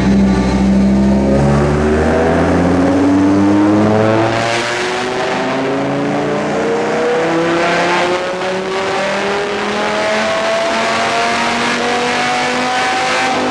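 Dodge Viper GTS V10 with an aftermarket camshaft and headers at full throttle on a dyno pull, the engine note climbing steadily in pitch as the revs rise.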